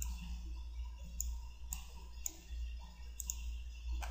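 Computer mouse buttons clicking, about seven sharp, irregularly spaced clicks, over a steady low hum.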